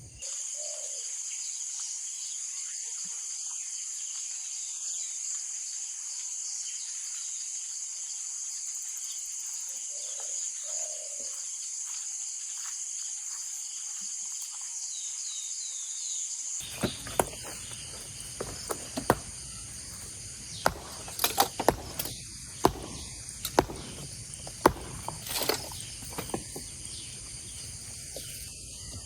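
Insects in the forest droning steadily at a high pitch. About two-thirds of the way in, the sound changes abruptly: fuller background noise comes in, with a run of sharp cracks and knocks.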